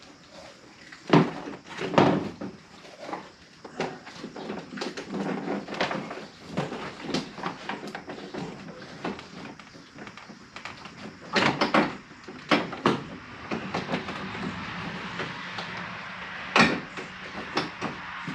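Irregular clicks, knocks and rattles of hand work on a pickup truck's door trim, with a few sharper, louder knocks.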